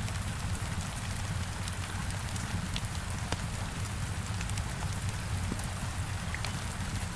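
Steady heavy rain hitting a window, with scattered sharp clicks and crackles of a wood fire on top.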